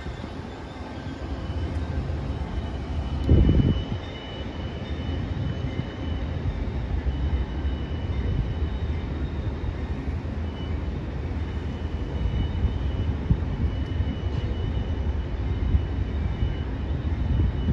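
Commuter train pulling out and moving away, giving a steady low rumble with faint high tones coming and going. A brief loud low thump comes about three seconds in.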